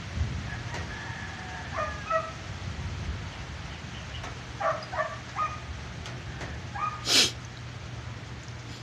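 A dog yipping and whining in short, high calls in small clusters over a steady hiss of heavy rain. There is one sharp, loud noise about seven seconds in.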